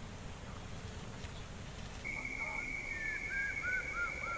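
Faint background with a steady thin high tone starting about halfway, and a quick run of about five short chirps near the end.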